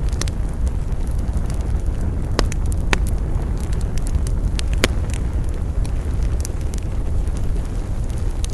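Wood campfire burning, with a steady low rumble of flame and sharp crackles and pops from the burning wood, the loudest at about two and a half, three and five seconds in.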